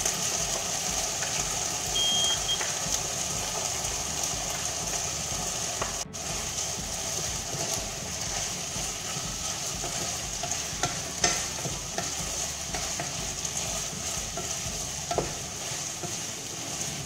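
Diced chicken breast and freshly added mixed vegetables sizzling in hot oil in a deep pot while being stirred with a wooden spatula, with a few sharp knocks of the spatula against the pot.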